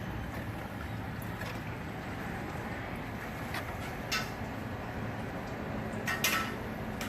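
Distilled water flushing old green coolant out of a 1959 Cadillac's cooling system in a steady rush, over a steady low hum. Two short clatters come about four and six seconds in.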